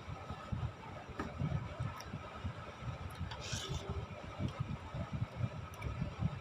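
Close-up eating sounds of someone chewing meatball soup: irregular low mouth and jaw thumps close to the microphone, with a few light clicks and a brief hiss about three and a half seconds in.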